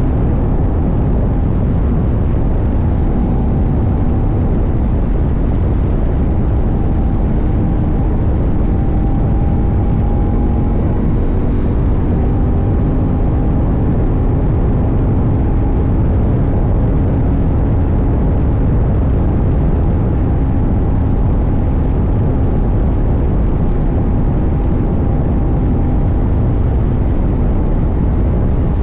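CFMoto 800NK's parallel-twin engine running at a fairly steady pace while riding, heard from a tank-mounted camera under a heavy low rumble of wind and road noise.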